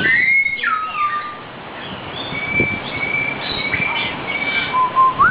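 Hill myna whistling: a rising note that falls away in the first second, then a series of short, steady high notes, and a lower note that jumps up near the end.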